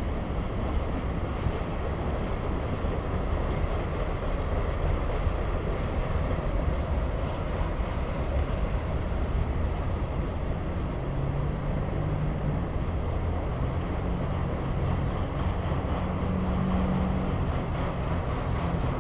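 Freight train cars rolling past on the rails, a steady rumble of wheels and cars, with a faint low hum joining about halfway through.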